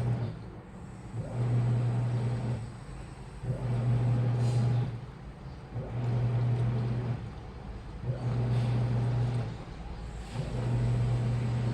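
Washing machine motor turning the drum in short runs of about a second and a half, pausing briefly between them, in a steady repeating rhythm: the tumbling action of a wash cycle.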